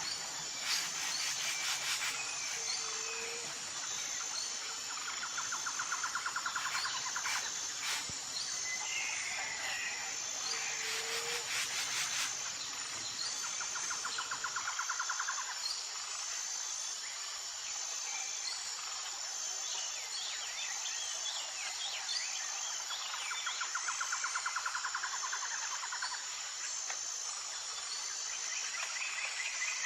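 Tropical forest ambience: a steady, pulsing high-pitched insect chorus, with scattered bird chirps and short whistled glides. A rapid trill lasting about a second and a half comes three times.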